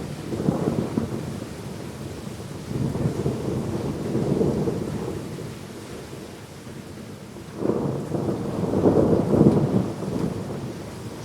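Thunder rumbling in long rolls that swell and fade, three times, the loudest near the end, over the steady hiss of heavy rain.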